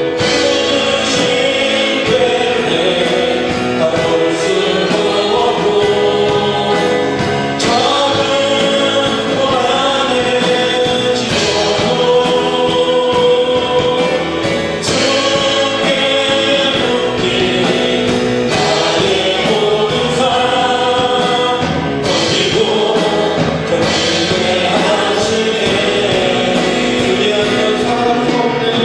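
Congregation singing a Christian praise song together with a worship band, a steady beat under many voices.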